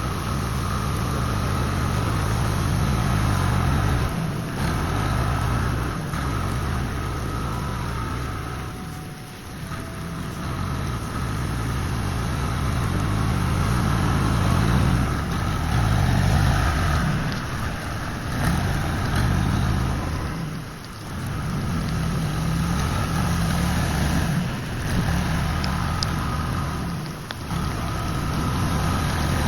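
Tractor engine running steadily while spreading gravel on a driveway, its sound rising and falling with load and distance, dropping briefly three times.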